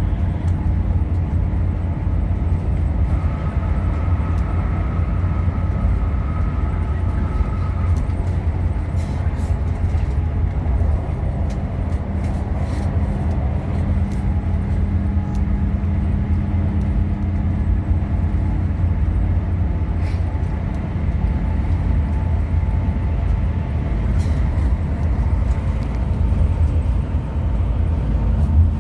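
Hino RM 280 coach on the move: a steady, loud low engine and road rumble with a faint engine drone, and light scattered rattles.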